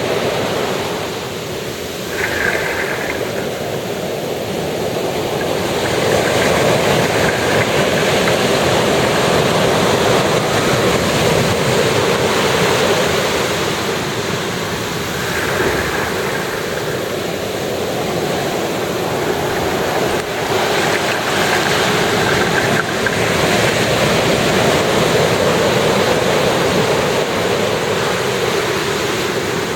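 Ocean waves breaking on the shore: a continuous wash of surf that swells louder and eases off over several seconds as waves come in.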